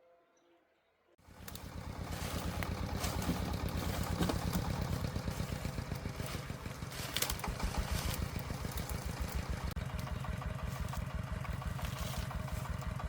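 The single-cylinder diesel engine of a công nông agricultural vehicle starts up about a second in and runs with a fast, even pulsing beat, with a few sharp metallic clanks over it.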